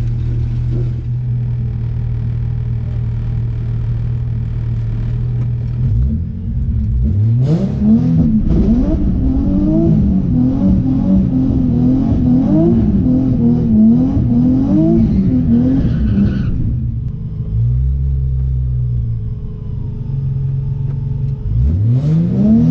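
Nissan 350Z's V6 engine heard from inside the cabin: idling steadily, then revved up about six seconds in and held high for about eight seconds with the pitch bobbing up and down. It drops back to idle, then revs up hard again near the end as the car pulls away.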